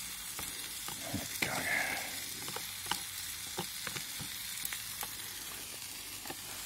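Stir-fry vegetables sizzling as they are tipped from a plastic tub into a hot frying pan on a wood gasifier stove: a steady hiss with scattered sharp pops, and a louder burst about a second and a half in as more vegetables slide into the pan.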